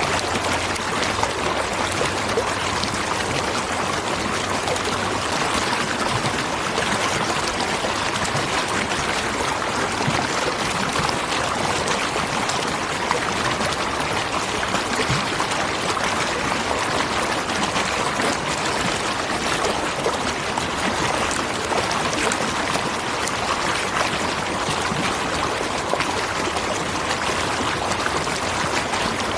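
Waterfall: a steady, unbroken rush of falling water, even throughout, its hiss strongest in the middle and upper range.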